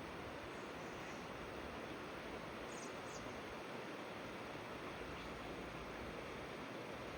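River water flowing in a steady rush, with two faint high bird chirps about three seconds in.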